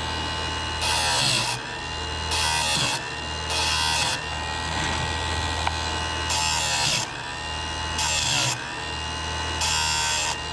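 A motor running steadily with a buzzing hum, broken six times by half-second bursts of hiss, during each of which its pitch briefly dips.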